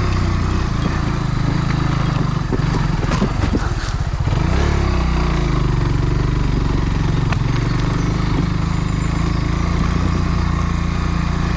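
Kawasaki W175's single-cylinder four-stroke engine running while being ridden, mixed with wind noise. About four seconds in, the engine note dips and then climbs back up, as when shifting gears or easing off and reapplying the throttle.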